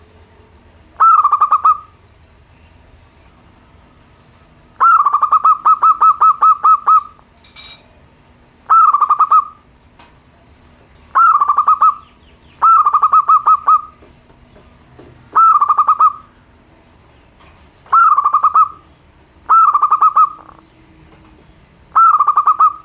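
Zebra dove (perkutut) cooing: about nine short bouts of rapid, rolling coo notes, one bout about five seconds in running longer than the others, with quiet gaps between. A brief sharp click sounds just after the long bout.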